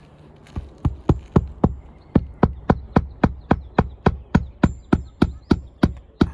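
Hammer driving roofing nails into an old asphalt shingle: a fast, steady run of sharp strikes, about four a second.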